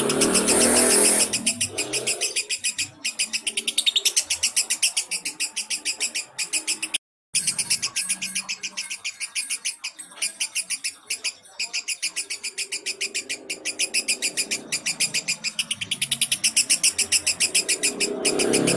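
Lovebird's long rapid chattering trill (ngekek), a fast run of evenly repeated high chirps that cuts out briefly about seven seconds in.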